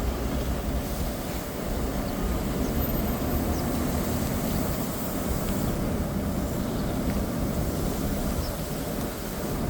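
Steady low rumble of city street background noise, mostly distant traffic, with a few faint ticks.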